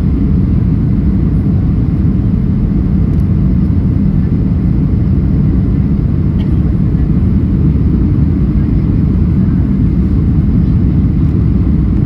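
Boeing 737NG cabin noise in flight: a steady, loud low rumble of the CFM56 engines and airflow, heard from inside the passenger cabin.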